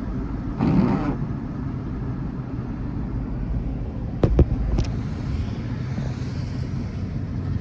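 Vehicle cabin noise while driving: a steady low engine and road rumble, with a brief rush of noise about a second in and a few sharp clicks a little past halfway.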